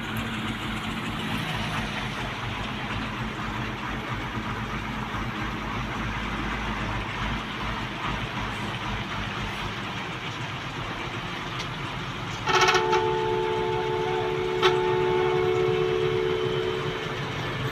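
Steady vehicle engine and road noise. About twelve seconds in, a vehicle horn starts a long, steady note that holds to the end, with a sharp click a couple of seconds after it starts.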